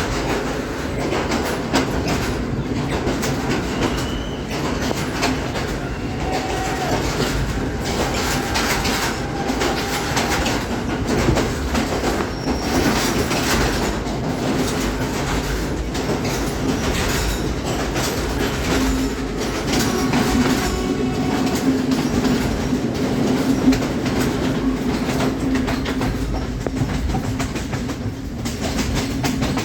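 Colombo–Badulla express train running along the line with a steady rumble and a continual clickety-clack of wheels over the rail joints.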